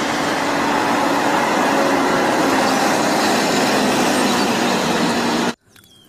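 Double-decker bus running in city traffic: a steady engine and road noise that cuts off abruptly about five and a half seconds in.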